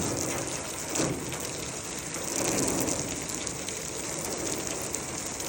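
Water from a garden hose spraying and splattering onto the car to put out a fuel fire, a steady hiss with no pauses.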